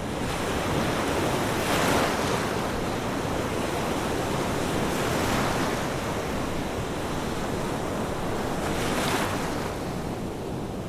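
Ocean waves washing onto a shore in a steady rushing hiss. Three waves break and swell up, the loudest about two seconds in and the others near five and nine seconds.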